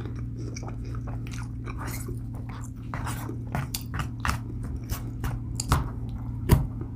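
Close-miked chewing and crunching of a salad with lettuce and croutons, a string of crisp crunches that get louder in the second half, over a steady low hum.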